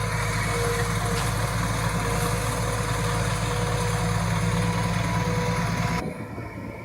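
Engine idling steadily with a low hum, cutting off suddenly about six seconds in.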